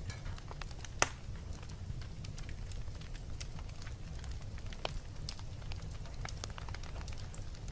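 Wood fire in a fireplace crackling, with scattered small pops over a low steady rumble, and one sharp pop about a second in.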